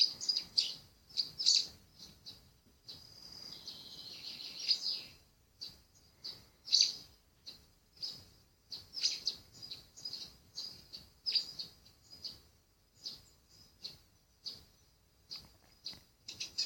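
Small songbirds chirping: short high chirps in quick, irregular succession, with a longer warbling phrase that falls in pitch about three to five seconds in.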